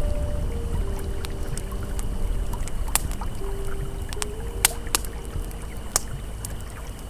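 Campfire crackling, with scattered sharp pops, over the steady rush of a flowing river. Soft, slowly changing ambient tones are held underneath.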